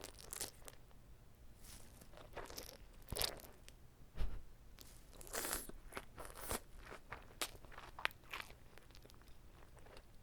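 Close-miked biting and chewing of an uncut gimbap (seaweed-wrapped rice roll), with irregular wet crackles and crunches, and a low thump about four seconds in.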